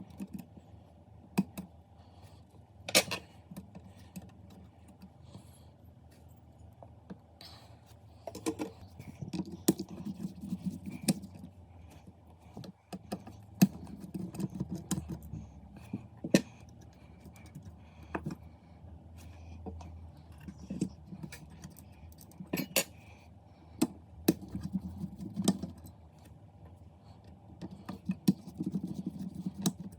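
Handling noises: irregular sharp clicks and knocks and a light metallic clatter of small hard parts, with several stretches of a softer rustling in between.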